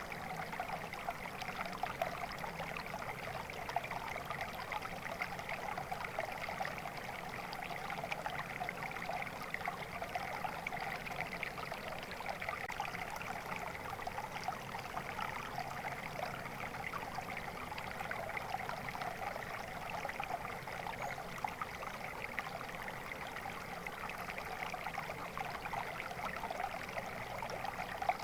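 Flowing water running steadily and evenly, a continuous rush with a fine, fizzy texture and no pauses.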